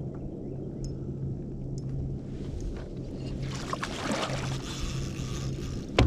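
Kayak on the water: a steady low hum runs under a low rumble, a rush of water noise swells about three and a half seconds in, and a sharp knock sounds at the very end.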